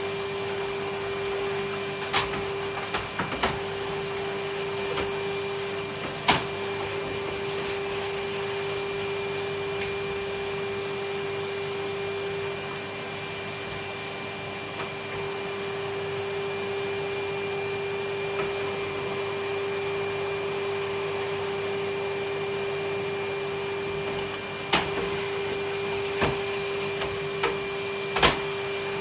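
Vacuum cleaner running steadily with a constant pitched whine, and a few sharp knocks as the nozzle hits hard surfaces, notably near the start and near the end.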